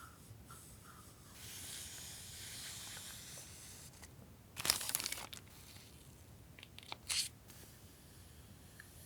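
Paper and plastic stationery packaging being handled: a soft rustle, then a short, loud tearing or crinkling sound about halfway through, and a shorter one near the end.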